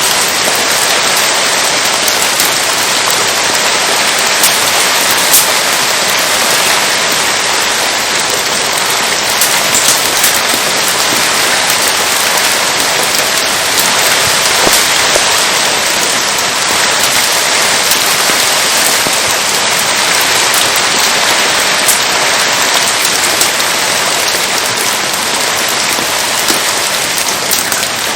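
Steady rain falling and pattering on surfaces, a dense even hiss with scattered sharp clicks of drops.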